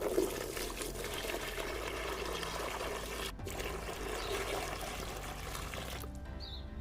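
Water pouring steadily, with a short break about halfway through, stopping about a second before the end. A bird chirps near the end.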